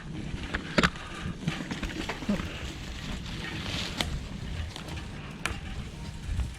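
Mountain bike riding along a dirt trail: a steady low rumble of tyres and wind on the microphone, broken by a few sharp clicks and knocks from the bike.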